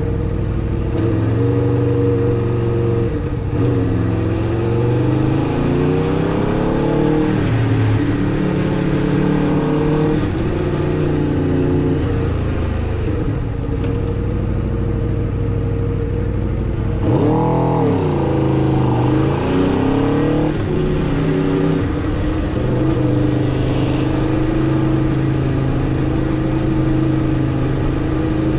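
2016 Aprilia RSV4 RR's V4 engine through its stock exhaust, ridden on the road, its pitch rising and falling with the throttle. About seventeen seconds in it revs sharply up and back down, then holds a steady pitch near the end.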